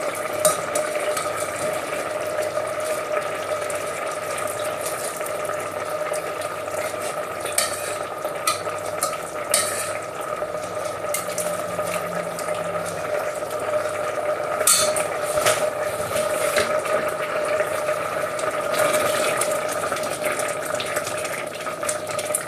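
Risotto simmering in a pan, with a few sharp clicks and scrapes of a utensil against the pan, over a steady hum.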